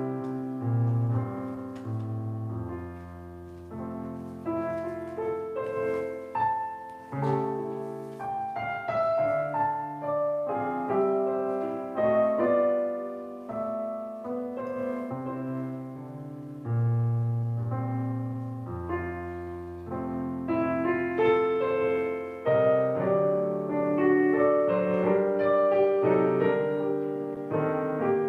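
Solo piano playing a prelude: a flowing melody of single notes over held low bass notes.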